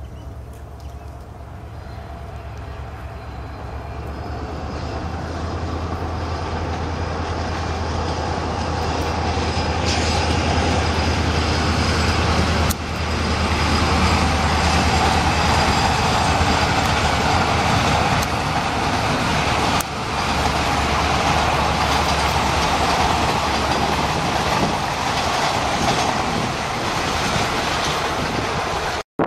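Diesel-hauled passenger train approaching and crossing a bridge: a steady low engine drone under the rumble of wheels and coaches, growing louder over the first dozen seconds, with two brief dips partway through.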